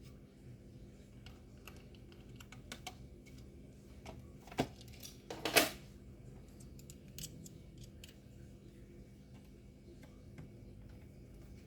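Light clicks and taps of a screwdriver and the plastic case of a Dell Latitude 3580 laptop as its screws are tightened, with two louder knocks in the middle, the second the loudest.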